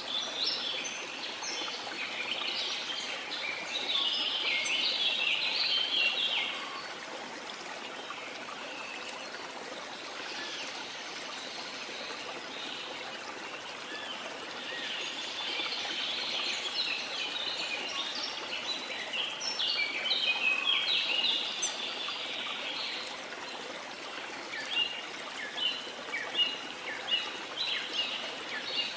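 Steady rush of a waterfall with several birds singing over it. Bursts of song come and go, and toward the end one bird gives a run of short, repeated chirps.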